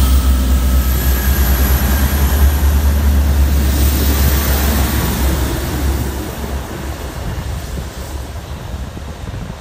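A train running through the station with a heavy low rumble, which fades away over the last few seconds as it moves off.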